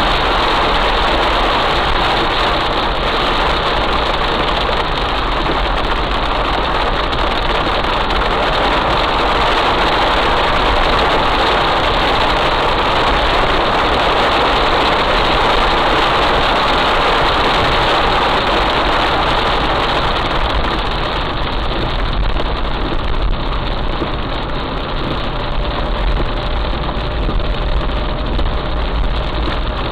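Heavy rain falling hard, a steady hiss, over the low rumble of a vehicle engine running. The rain lessens slightly about two-thirds of the way through.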